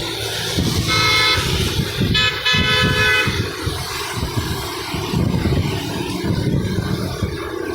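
Vehicle horn honking twice, a short toot about a second in and a longer one of about a second just after two seconds in, over steady traffic rumble.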